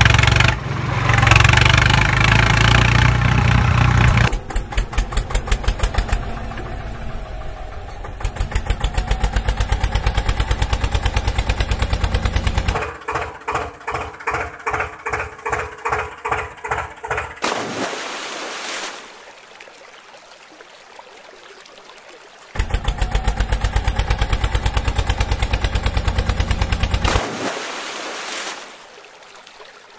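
Vehicle engine running in several short cut-together segments, some a steady fast chug and one a slower throbbing of about two pulses a second, with quieter gaps between them.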